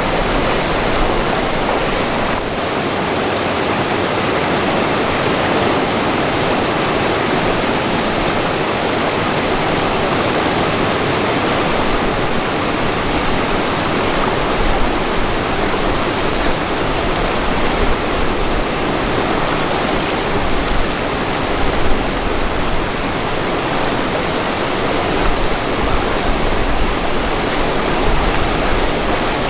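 Rushing stream water, a loud steady noise with no break.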